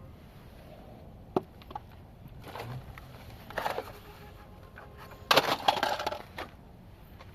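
Something being broken apart: a sharp crack about a second and a half in, then bouts of crunching and cracking, the loudest a little past five seconds.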